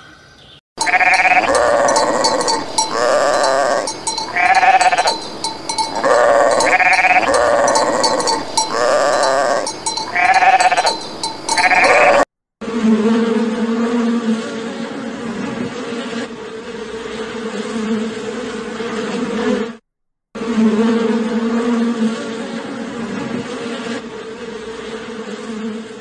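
An animal bleating over and over, each call under a second long with a wavering pitch. After a break about twelve seconds in, a honeybee buzzes steadily in flight at a flower, cutting out briefly near twenty seconds in.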